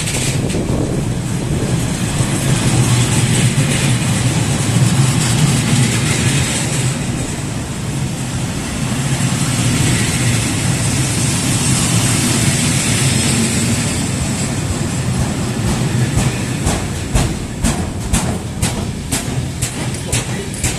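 Long freight train of flat wagons loaded with steel beams rolling past at speed: a steady rumble and hiss of steel wheels on the rails, with a quick series of clicks from wheels over rail joints in the last few seconds.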